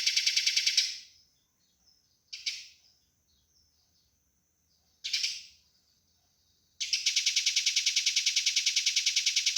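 Eurasian tree sparrow fighting calls: a fast, even run of chirps, about seven a second, breaks off about a second in, two single calls follow in the pause, and the fast chirping starts again near the end.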